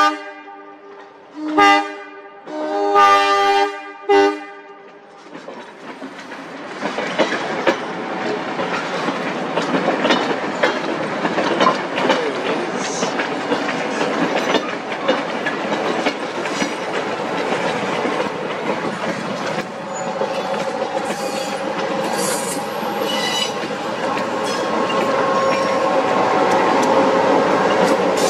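Train horn sounding a short blast and then a long one, the end of the grade-crossing signal, and stopping about four seconds in. Then the passenger coaches roll by with steady wheel rumble and clickety-clack over the rail joints, and the diesel locomotive's engine grows louder near the end as it comes past.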